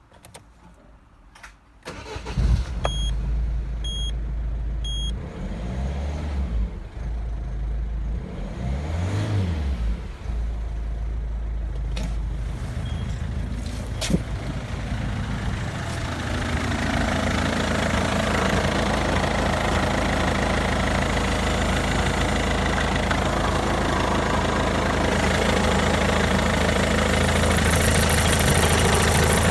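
Citroen Berlingo 1.6 HDi four-cylinder diesel engine (9HX / DV6ATED4) starting about two seconds in and then idling. Three short beeps come about a second apart just after the start. The revs briefly rise and fall twice, and the running grows louder and fuller toward the end.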